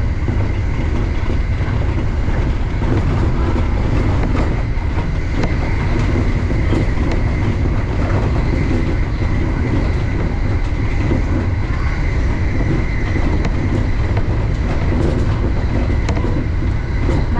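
Electric commuter train running at speed, heard from just behind the driver's cab: a steady low rumble of wheels on rail with a faint high steady tone and scattered light clicks.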